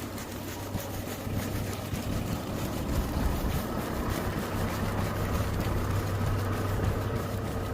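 A steady low mechanical hum, as of an engine running at idle, with faint ticks and scuffs over it.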